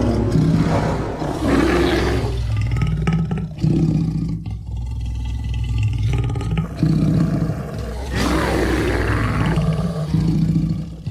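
Monster creature sound effect built from big-cat, boar and bear recordings, roaring and growling. A loud snarling roar fills the first two seconds. Lower rumbling growls follow, then a second loud roar begins about eight seconds in.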